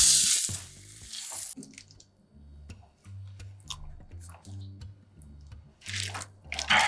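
Soft background music with a low stepping bass line. A loud, even hiss fills the first second and a half, and faint scattered clicks and taps follow.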